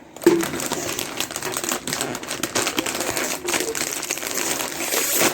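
Doritos chip bag crinkling and crackling steadily as it is handled and opened, for about five seconds before it stops.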